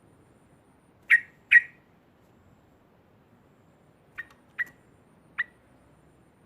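Yellow-vented bulbul giving short, sharp calls: two loud ones about a second in, then three fainter ones near the end.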